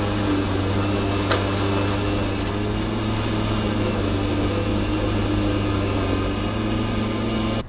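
Ride-on lawn mower's engine running steadily under mowing, a constant even hum, with a faint click about a second in.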